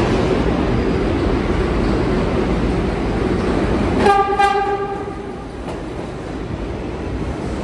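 New York City subway train running through the station with a steady rumble, then about four seconds in a short horn blast of under a second, after which the rumble eases.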